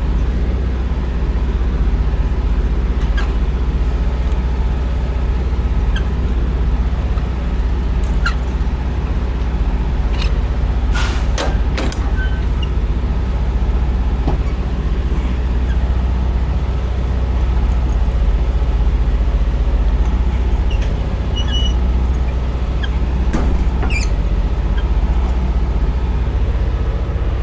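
Semi-truck's diesel engine running steadily at idle, with a few scattered clicks and two loud short noises about eleven and twelve seconds in.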